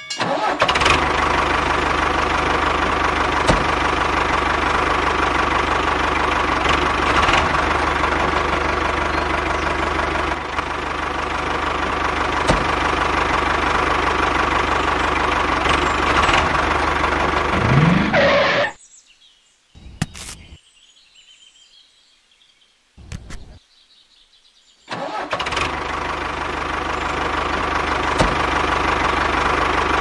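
Tractor engine running steadily, with a short rising rev; a little past halfway it cuts out for about six seconds, leaving only a couple of faint blips, then runs again.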